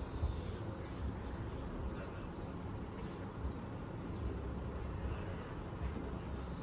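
A small bird chirping repeatedly, short high notes about two to three a second, over a steady low background rumble.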